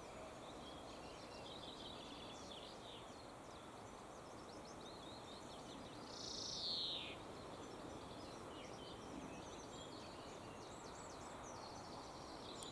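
Faint background birdsong: several birds chirping and trilling over a steady hiss, with one louder call about six seconds in that slides down in pitch.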